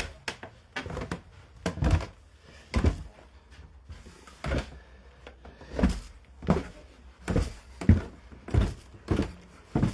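Footsteps thudding down a staircase, one heavy step after another, spaced unevenly at first and then coming steadily about every two-thirds of a second.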